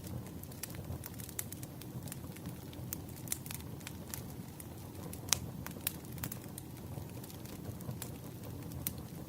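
Wood fire crackling: scattered sharp pops and snaps over a steady low rumble of burning logs, with one louder pop about five seconds in.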